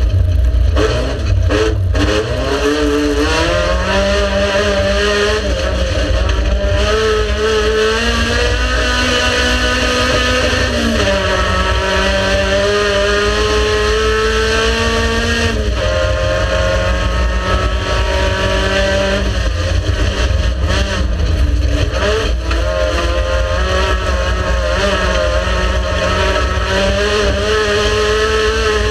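Race car engine running hard, its pitch climbing and then dropping back several times as it changes gear, over a constant heavy rumble.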